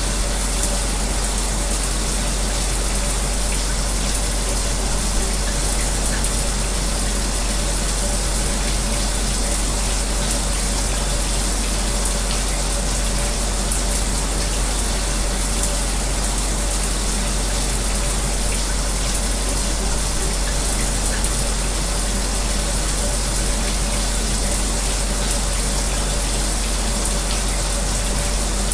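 A shower running steadily with an electric fan, mixed into an even white-noise wash, with a faint steady hum under the spray.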